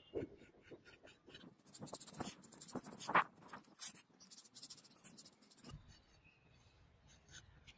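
Irregular light scraping and scratching with scattered small clicks, busiest in the middle and fainter near the end.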